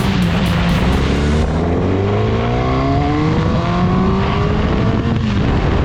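A vehicle motor accelerating, several pitched tones climbing steadily over a few seconds above a steady low hum.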